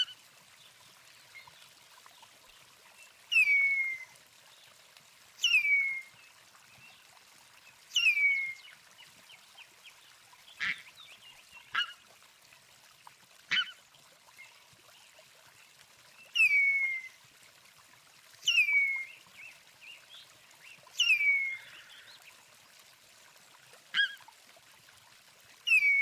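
A bird calling: a loud call that drops in pitch, repeated every two to three seconds, with a few short, sharp single notes in between around the middle.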